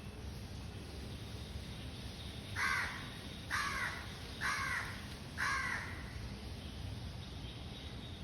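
A bird calling four times, about a second apart, over a steady low rumble.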